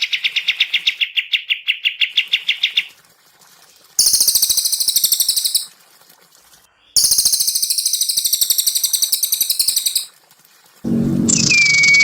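Recorded songbird song: a fast, even trill of rapidly repeated notes for about three seconds, then after a pause two spells of very high, rapid, buzzy chatter. Near the end a different, louder sound starts, holding a steady whistle-like tone.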